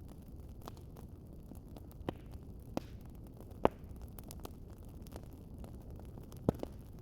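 Wood fire crackling: a steady low rumble of flames with scattered sharp pops. The loudest pop comes about three and a half seconds in, and a quick double pop comes near the end.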